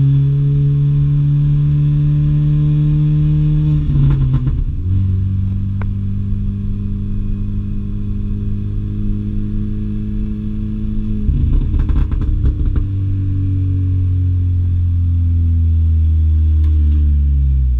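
Mini Cooper engine heard on board at track speed, holding a nearly steady note. Twice the pitch drops sharply with a brief clatter, about four and eleven seconds in, as it changes gear, and it falls away again near the end.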